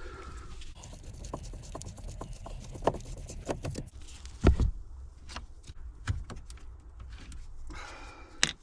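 Scattered clicks, taps and small knocks of hands and tools working at the car's plastic centre-console trim, which will not come loose, with one heavier thump about halfway through.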